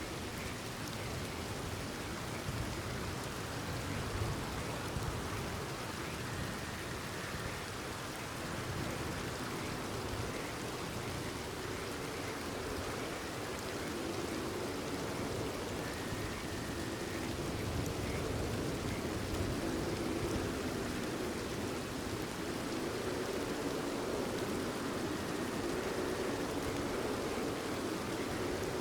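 Steady rain falling, an even hiss, with faint frog calls now and then.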